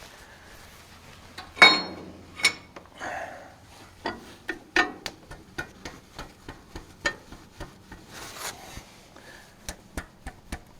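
Metal tools and parts being handled: one loud ringing metal clang about two seconds in, then a run of light, irregular clicks and taps.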